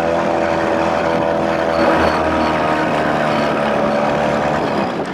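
1993 Evinrude 25 hp two-stroke outboard, built up toward 35 hp, running steadily under way. It is underperforming with weeds fouling it. The engine note fades near the end as it eases off.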